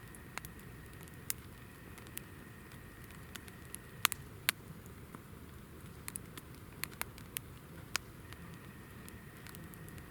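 Hinoki (Japanese cypress) firewood burning in a campfire, crackling with irregular sharp pops over a low, steady rush; the two loudest pops come about four seconds in.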